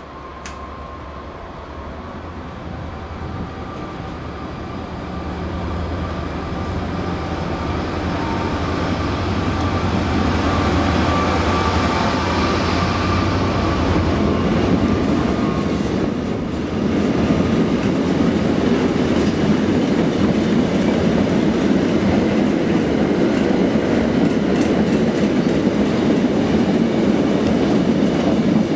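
A Vossloh G2000 BB diesel-hydraulic locomotive approaches and passes at speed, its engine drone and a steady whine growing louder over the first half. From about halfway through, a long train of loaded double-deck car-carrier wagons rolls past with a steady wheel rumble on the rails.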